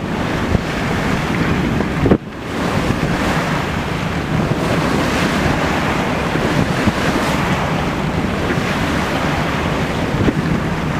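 Wind buffeting the microphone over the rush of sea water along a sailing yacht's hull while under way, with a brief drop in the wind noise about two seconds in.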